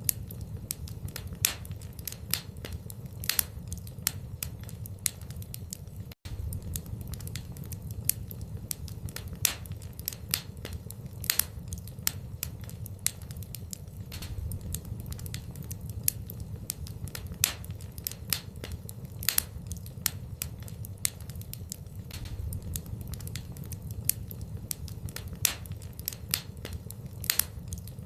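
Fire burning in a fireplace, crackling with sharp, irregular pops over a steady low rumble of the flames.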